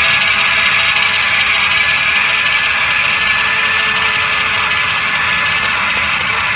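Radio-controlled model excavator running, a steady high whine over a hiss with no change in pitch.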